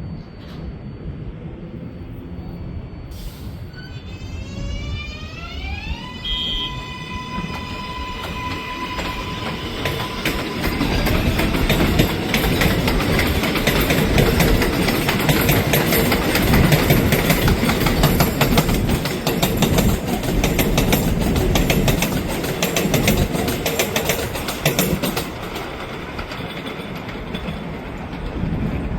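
A 7 train of R188 subway cars on the elevated IRT Flushing Line. Its motor whine rises through a stack of tones for about two seconds and then holds. The cars then rumble and clatter over the rail joints, loudest through the middle and easing off near the end.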